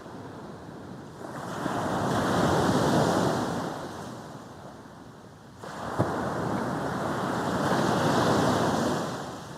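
Sea waves breaking and washing up a beach, surging twice. A little past halfway the surf steps up suddenly, and a brief sharp click follows.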